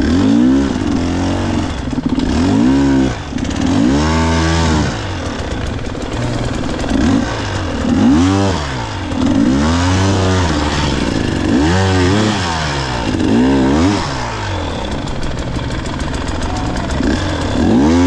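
Two-stroke enduro dirt bike engine being revved hard and let fall again and again, its pitch climbing and dropping every couple of seconds as the throttle is worked on a steep, technical climb.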